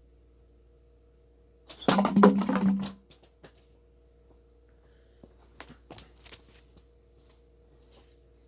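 A toy rocket fired at plastic soda bottles and knocking some of them down: a loud clattering burst about two seconds in that lasts about a second, followed by a few light knocks a few seconds later.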